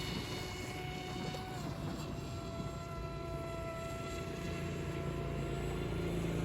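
Electric motor and propeller of a radio-controlled X8 flying-wing plane whining in flight, its pitch shifting slightly with throttle, over low wind noise.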